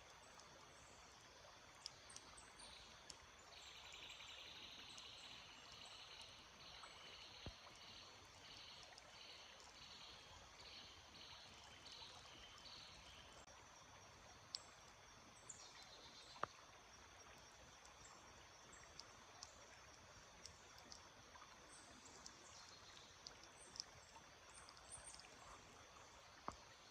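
Faint running stream trickling steadily, with a bird singing a series of evenly repeated high notes for about ten seconds early on, and scattered short chirps and ticks afterwards.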